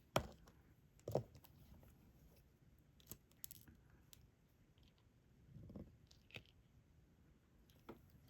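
Small, scattered clicks and taps of diamond-painting work: a stylus picking up resin drills and pressing them onto the sticky canvas, about eight light ticks spread over a few seconds with a brief soft rustle in the middle.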